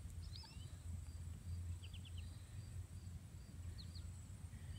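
Quiet outdoor ambience with a few short, high bird chirps in small groups, including a quick run of four near the middle, over a faint steady low rumble.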